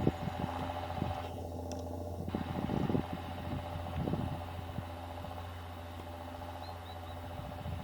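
John Deere tractor engine running at a steady pitch under plowing load, with irregular low thumps over it.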